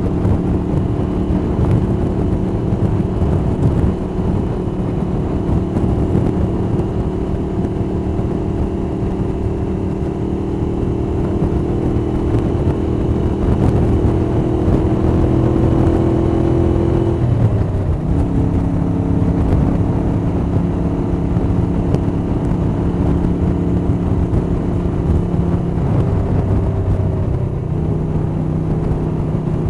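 1982 Moto Guzzi 850 Le Mans III's air-cooled V-twin, with Lafranconi Riservato Competizioni exhausts and K&N cone filters, running at a steady cruise with valvetrain noise and wind noise. It is heard through a cotton-wrapped microphone in a jacket pocket, so it is slightly muffled. The engine note creeps up, then dips sharply about two-thirds of the way through and settles lower.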